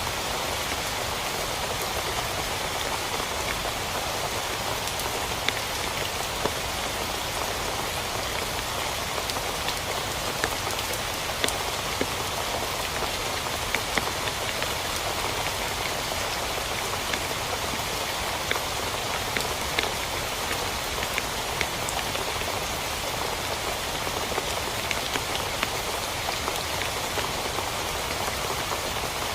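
Steady heavy rain falling on a tent, with individual drops ticking sharply here and there.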